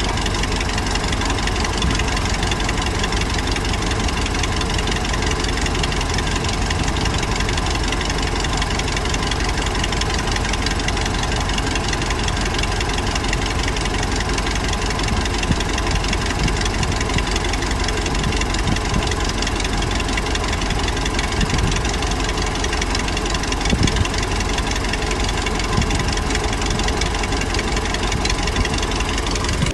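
Heavy diesel engine of earthmoving machinery running steadily at an even speed, with a couple of brief louder knocks about two thirds of the way through.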